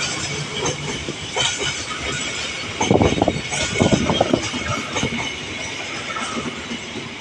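Passenger train carriages rolling past, their wheels clacking over the rail joints in quick clusters about three seconds in, then fading as the train moves away.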